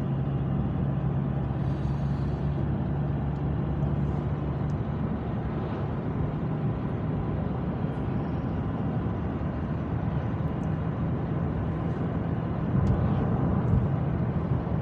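Car driving along a road, heard from inside the cabin: a steady rumble of engine and tyre noise, a little louder near the end.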